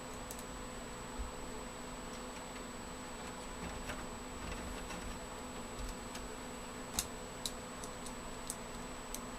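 Scattered small sharp clicks of screws being driven to fasten a metal media drive bay into a PC case, the sharpest about seven seconds in, over a steady faint electrical hum with a thin high whine.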